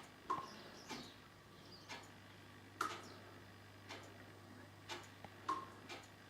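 Faint, steady ticking, about one tick a second, with a few louder clicks among them.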